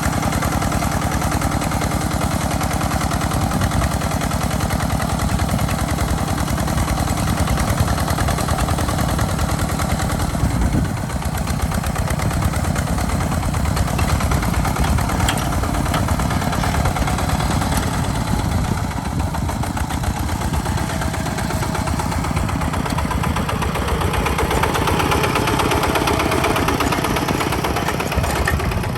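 Tractor engine running steadily under load while ploughing, with an even stream of firing strokes and a slight dip about a third of the way through.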